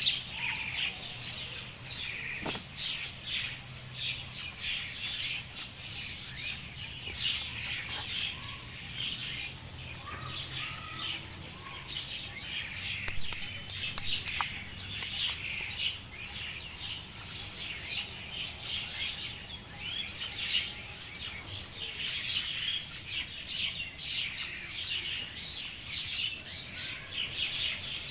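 Birds chirping in a busy, continuous chorus of short calls, with a few sharp clicks about halfway through.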